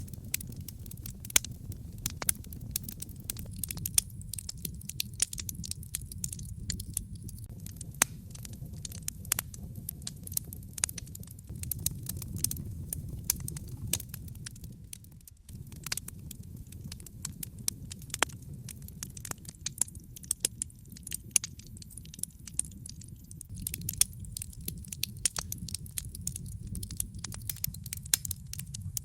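Wood fire burning in a fireplace: dense, irregular crackles and sharp pops over a steady low rumble of the flames. The low rumble dips for a moment about halfway through.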